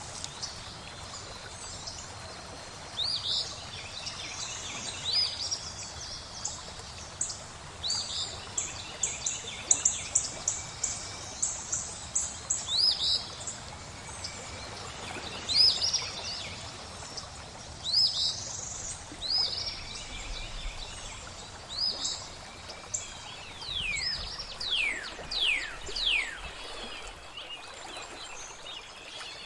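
Several birds calling and singing over a steady rush of flowing water: short sharp notes repeated every second or two, a quick run of chips about a third of the way in, and a few falling whistles near the end.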